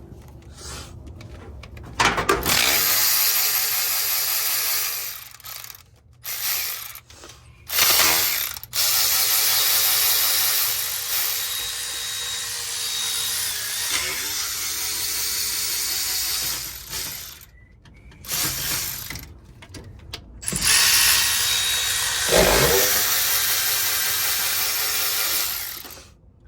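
Cordless battery ratchet running in three long runs with short pauses between them, spinning bolts out.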